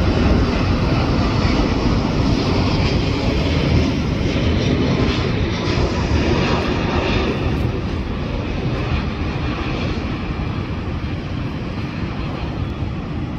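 Jet engine noise from an Airbus A330 airliner after landing, a steady wide rumble that slowly fades over the last few seconds.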